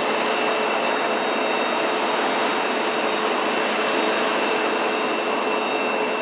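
Steady, even hiss with a faint low hum and a thin high whine, unchanging throughout, like a running fan or machine.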